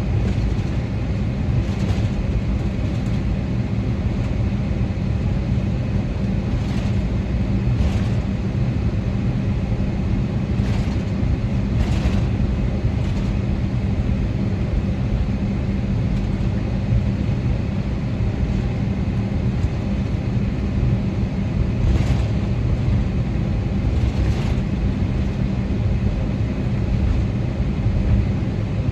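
Cabin noise inside a Boeing 777-300ER as it taxis: a steady low rumble of its engines and rolling wheels with a constant hum, broken by a few light knocks and bumps.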